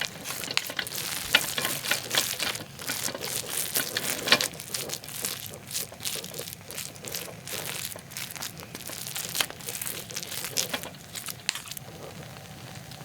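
Spoon scraping and stirring rice that is frying in a pan, breaking up frozen rice that has set into a clump. A quick, irregular run of scrapes and clicks over a sizzle stops about twelve seconds in, leaving a steady hiss.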